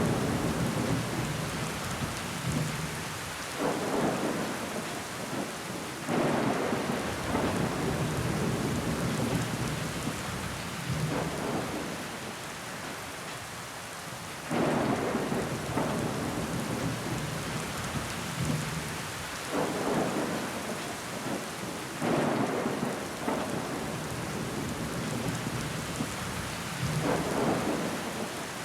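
Heavy rain pattering against a window glass, a steady wash that swells in loudness every few seconds.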